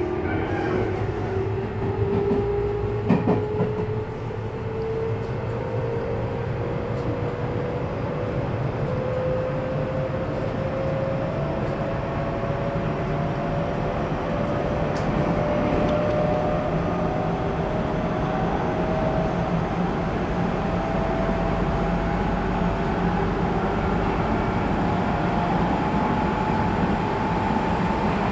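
Tobu 20400 series electric motor car running, heard from inside: the whine of the traction motors, driven by a Toyo GTO inverter, rises slowly and steadily in pitch as the train gathers speed, over the rumble of wheels on rail. A few knocks come about two to three seconds in.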